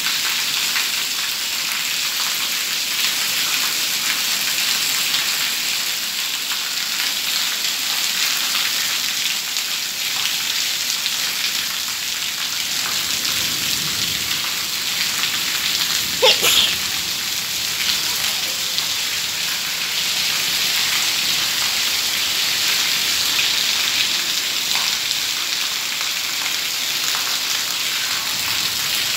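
Heavy monsoon rain falling steadily on a paved courtyard and roof, an even hiss of splashing drops. About halfway through, a brief, sharp sound rises above the rain.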